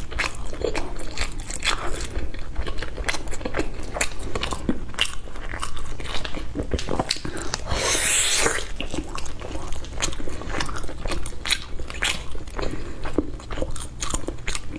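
Close-miked mouth sounds of eating a sticky-rice zongzi: repeated biting and wet chewing with many small clicks, and a brief louder rush about eight seconds in.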